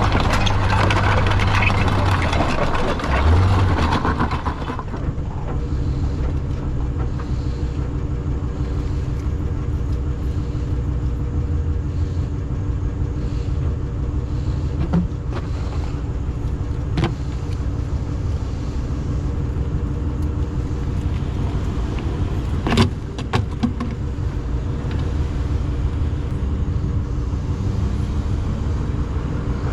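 Tow truck engine running steadily while a stuck car is winched and dragged out. A vehicle rushes past in the first few seconds, and a few sharp metallic clanks come around the middle and later on.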